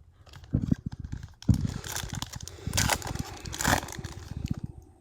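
Trading card pack wrapper and cards being handled: irregular rustling and crinkling with low bumps, and two louder crackles about three and three and a half seconds in.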